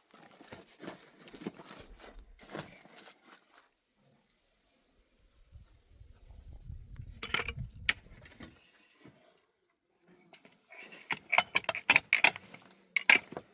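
An insect, cricket-like, chirping in a steady high pulse about four to five times a second for several seconds. Scattered knocks and clattering come around it, with two sharp knocks midway and a dense run of clatter near the end.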